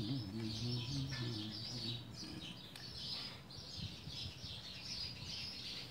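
Birds chirping steadily in the background, many short high calls overlapping. A faint low voice murmurs during the first couple of seconds.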